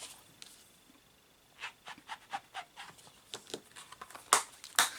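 A small cling stamp being wiped clean on a chamois: a run of short, quick rubbing strokes, then two louder scuffs near the end.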